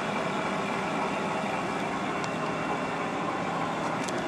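Steady background drone of workshop machinery or ventilation, an even noise with a faint hum under it and a couple of light ticks near the end.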